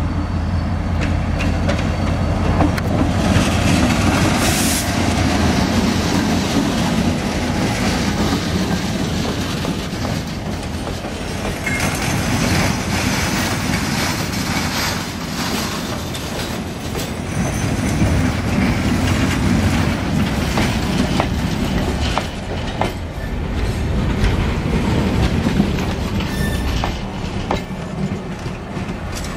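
A train passing close by at a level crossing: a locomotive's low engine drone as it arrives, then a line of enclosed car-carrier wagons rolling past with continuous wheel rumble and rapid clicking over the rail joints. There is a short wheel squeal about twelve seconds in.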